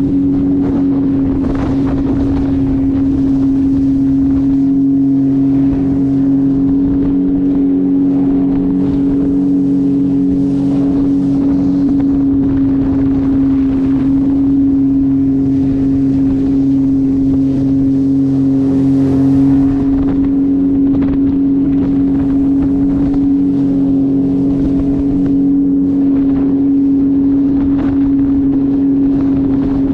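Jet ski engine running at a steady speed: one loud, unchanging drone that holds its pitch throughout, with wind buffeting the microphone.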